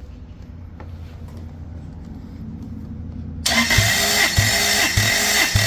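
Lexus 3UZ-FE 4.3-litre V8 being cranked by its starter motor for a compression test: about halfway in, a loud starter whine begins, with a low rhythmic pulse a little under twice a second as the cylinders come up on compression.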